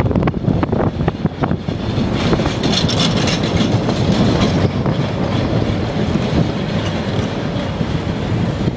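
Chicago CTA 'L' train running past on the rails, its wheels clicking over rail joints for the first second or so, then a loud, steady rushing rumble with a brighter hiss about three seconds in.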